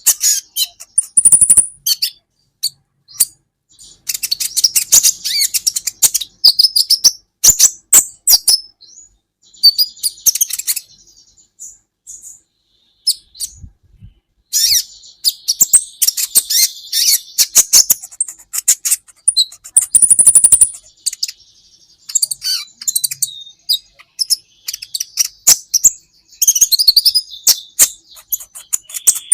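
Kolibri ninja sunbird singing: fast bursts of high-pitched chirps and twittering trills, with a short lull about halfway through.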